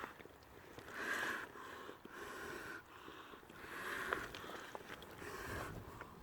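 A person breathing hard in and out, a rough, noisy breath about once a second.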